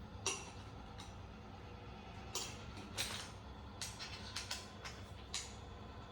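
Scattered light clicks and knocks of small objects being handled and set down, about seven over several seconds, over a steady low hum.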